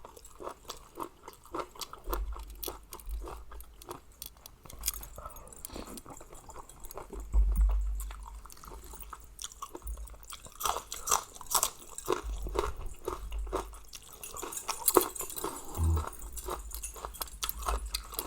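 A person chewing a mouthful of spicy mixed seafood papaya salad with salmon, squid and shrimp, close to the microphone: a steady run of small irregular mouth clicks and smacks, with occasional low thumps.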